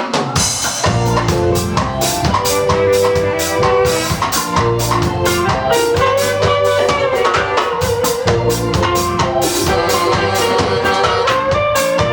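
Live ska band playing a song: a drum kit keeping a quick, steady beat with snare and bass drum, under a bass line and held melody notes. The band comes in just at the start, after a short break.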